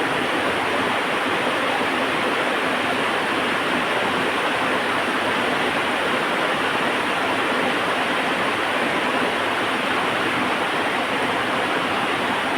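Heavy rain falling steadily: a loud, even hiss with no let-up and no distinct drops or crackles standing out.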